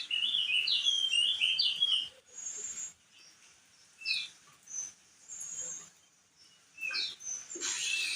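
Crested darkeye (opior jambul) singing: a quick, jumbled run of high warbling notes lasting about two seconds, then a few short separate chirps with pauses between.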